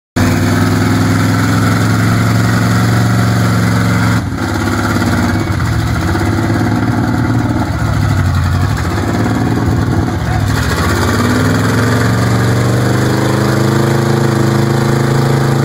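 Off-road 4x4 vehicle's engine running loudly, its pitch wavering through the middle and then climbing steadily over the last five seconds as it accelerates.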